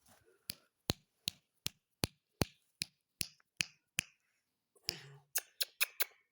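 A steady run of sharp clicks, about two and a half a second, then after a short pause a faster run of clicks near the end.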